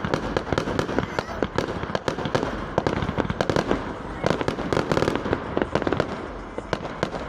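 Fireworks display: a dense, continuous run of rapid bangs and pops, many a second.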